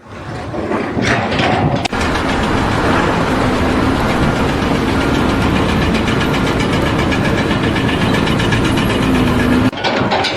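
A machine's engine running steadily, with abrupt cuts about two seconds in and near the end.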